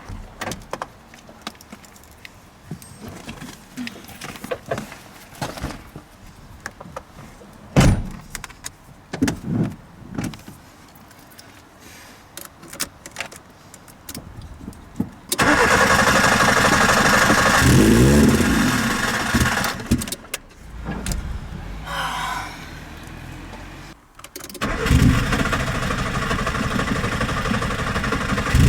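Nissan Micra K11 being started: the first half holds scattered clicks, knocks and key jangles. About halfway the engine cranks and catches, running loudly with its pitch rising and falling under the pumped throttle. It cuts out abruptly near the end, then starts again and runs steadily.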